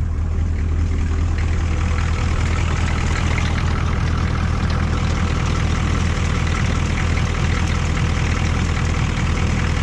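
A 1985 GMC 3500's 6.2-litre Detroit Diesel V8 idling steadily, freshly started after a crank-no-start problem.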